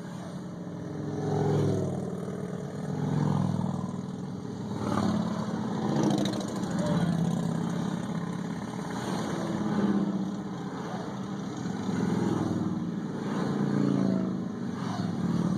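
A line of motor vehicles driving past one after another, each one swelling up and fading, about every two seconds.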